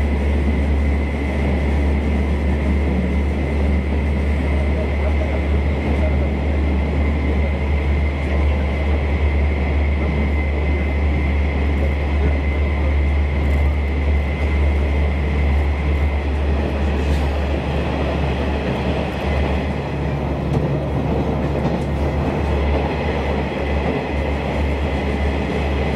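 Electric train running through a tunnel, heard from inside the carriage: a loud, steady low rumble of wheels and running gear closed in by the tunnel walls, with a thin steady whine above it.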